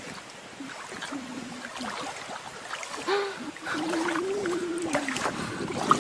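A dog vocalizing in drawn-out, wavering tones: a short one near the start, a brief one about three seconds in, and a longer one lasting about a second and a half, with scattered clicks and rustling.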